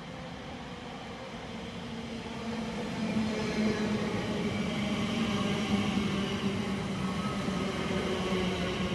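A train approaching, growing louder over the first three seconds and then running on steadily, with a steady hum and whine over the rumble of the wheels.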